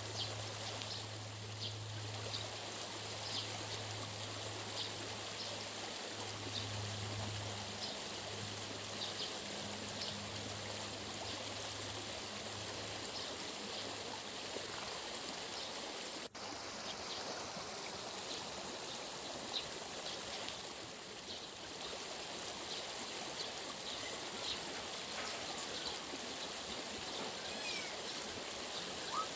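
Steady rushing of a flowing stream, with a low hum through the first half and faint short high ticks scattered throughout.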